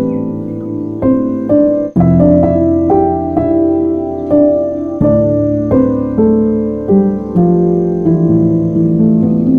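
Background piano music, a slow melody of held notes over chords.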